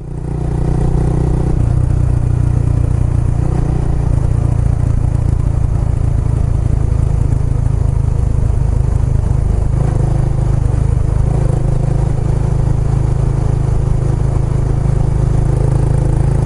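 Kawasaki Estrella's air-cooled single-cylinder engine running steadily through an aftermarket Yamato muffler, with a low, even exhaust note.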